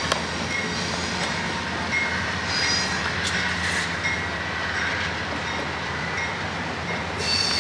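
Amtrak passenger train rolling past with steady wheel-on-rail rumble. A locomotive bell rings about once a second, and a high wheel squeal comes in strongly near the end.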